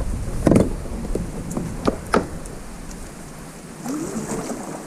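Wind rumbling on the microphone with a heavy knock about half a second in and two sharp clicks about two seconds in, like gear being handled in a kayak; the rumble drops away after about three seconds.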